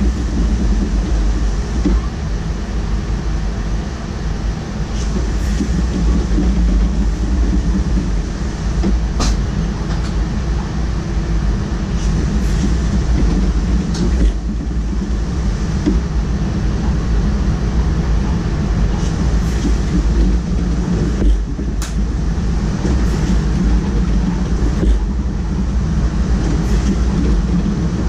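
Electric locomotive hauling DDAR double-deck coaches at speed, heard from the driver's cab: a steady, low-heavy running noise with a few sharp clicks.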